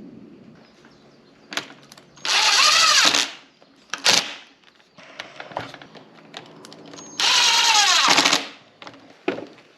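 Handheld power drill running in two bursts of about a second each, its whine falling in pitch as it winds down after each one, with a few sharp knocks in between. The drilling is typical of pocket-hole joinery for wooden cabinet door frames.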